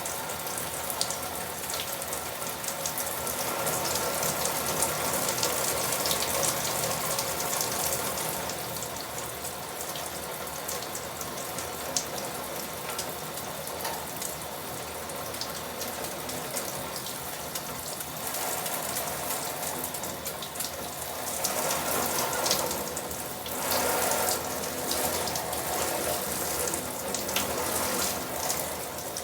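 Tap water running in a steady stream and spattering as a cockatiel is showered under it, swelling louder for a few seconds twice.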